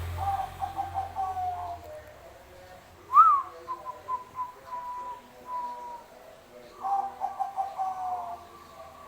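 Zebra dove (Bangkok perkutut) cooing in three phrases of quick staccato notes, each phrase sliding slightly down in pitch. A sharp rising-and-falling whistle comes about three seconds in, the loudest sound here. A low hum fades out about two seconds in.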